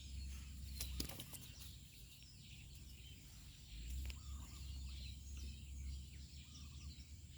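Outdoor ambience: small birds chirping over a low rumble of wind on the microphone, with a few short clicks about a second in and again near four seconds.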